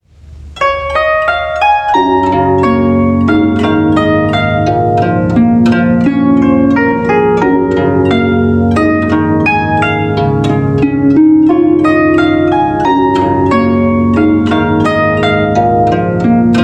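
Guzheng playing a quick, flowing melody of plucked notes, starting right after a brief silence, with a fuller lower accompaniment joining about two seconds in.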